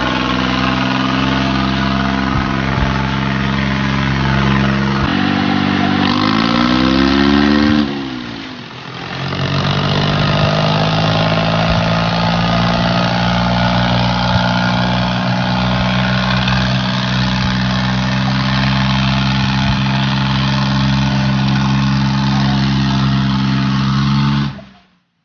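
Diesel tractor engine running hard and steady. About five seconds in it rises in pitch, then drops sharply near eight seconds before settling back to a steady run. It cuts off suddenly near the end.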